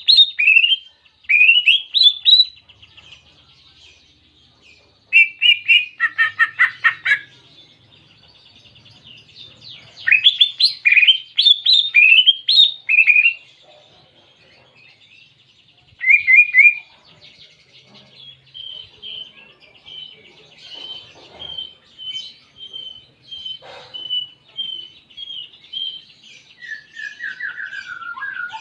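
Greater green leafbird (cucak ijo) singing with canary-style phrases: loud upswept whistles and chirp clusters over a fast buzzy trill, then a softer run of evenly spaced notes and a falling phrase near the end.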